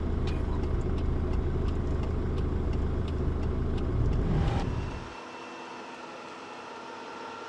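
A low engine rumble that rises slightly about four seconds in, then breaks off abruptly to a quieter steady hum with faint tones.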